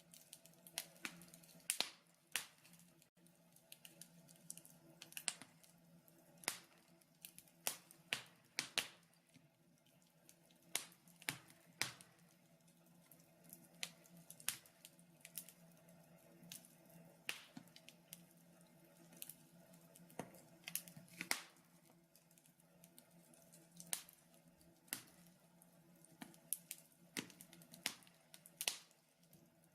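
Wood fire in a fireplace crackling, with irregular sharp pops and snaps, some close together, a few each second, over a faint steady low hum.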